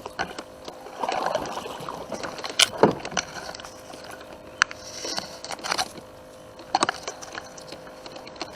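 Handling noise in a kayak: scattered knocks, clicks and scrapes, with brief water splashing about a second in and again near the middle, while a catfish is brought in off a bank line.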